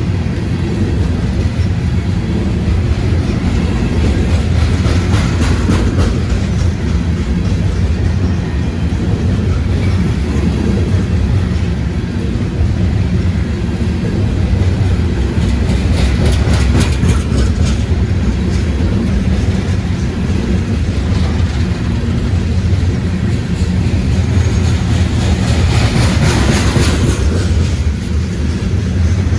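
CSX freight train's cars rolling past: a steady loud rumble of steel wheels on the rails, with two clusters of sharper clicking as wheels pass over rail joints.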